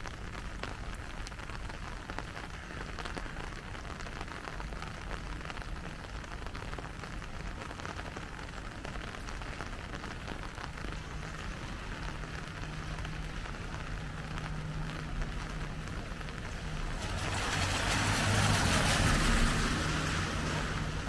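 Steady rain falling on a city street, an even hiss throughout. Near the end a vehicle passes on the wet road, its tyre hiss swelling for about three seconds and then fading.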